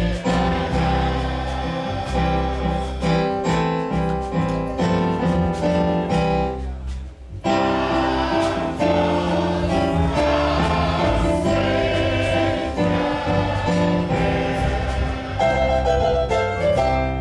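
Gospel music: a choir singing with instrumental backing, with a brief break about seven seconds in before the music carries on.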